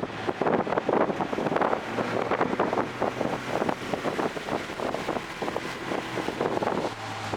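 2024 Toyota GR Corolla's turbocharged 1.6-litre three-cylinder engine running at speed on track, its note mostly buried under heavy wind buffeting on the microphone.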